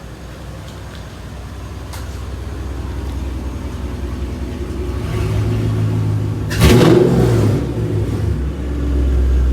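Car engine running, growing gradually louder and settling into a steady drone, with a loud rush lasting about a second roughly two-thirds of the way through.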